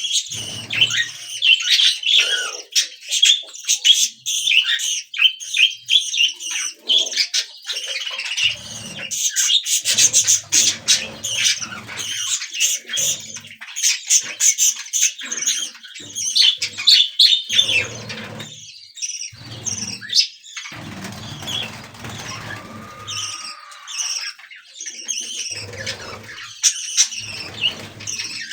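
Budgerigars chirping and warbling continuously in busy overlapping chatter, with clusters of quick clicking notes.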